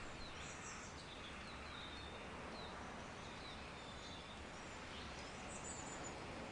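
Soft nature ambience: a steady faint hiss with scattered short, high bird chirps and calls throughout.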